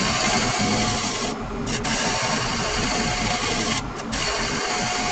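Spindle roughing gouge cutting a spinning laminated wood blank on a wood lathe: a continuous shearing cut through the glued-up long grain, broken twice by brief pauses as the tool lifts off.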